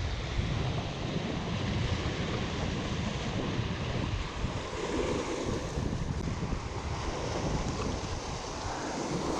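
Wind buffeting the microphone outdoors, a steady rushing noise with uneven low rumble.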